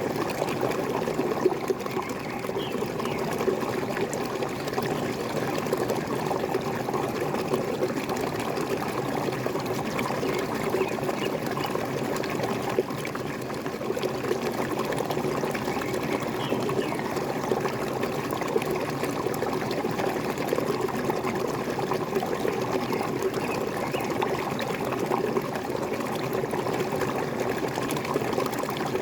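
Waterfall running steadily, water pouring and trickling without a break.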